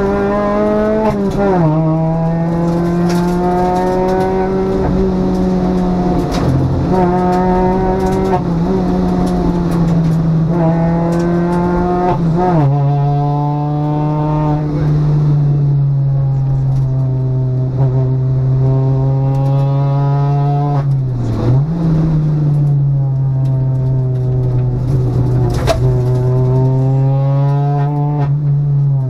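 Citroën DS3 R1 rally car's four-cylinder engine heard from inside the cabin, running hard at high, steady revs. Its pitch dips briefly and recovers several times, with scattered sharp knocks over it.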